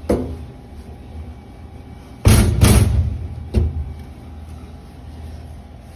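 Knocks and a loud clatter of copper pipe pieces and plumbing tools being handled: a click at the start, a clatter about two seconds in lasting under a second, then one more knock.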